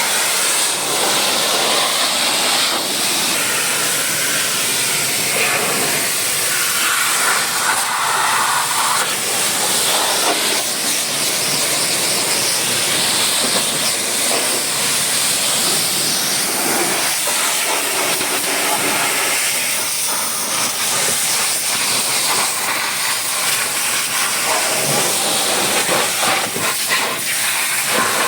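Pressure washer spraying water in a steady hiss, its tone shifting a little as the spray moves.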